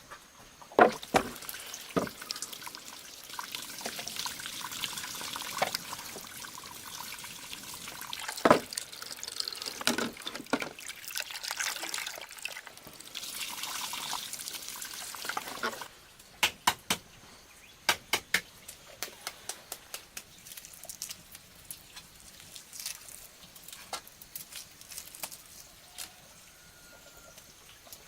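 Water splashing and trickling, with knocks, for about the first half; then it stops suddenly, and a run of sharp separate clicks and knocks follows.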